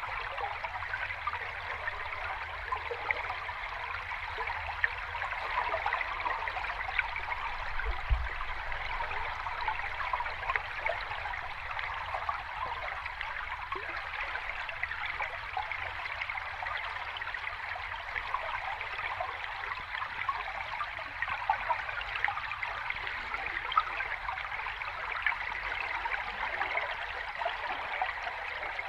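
Sea water washing in a steady, fizzing wash of small waves that swells gently now and then, with a soft low thud about eight seconds in.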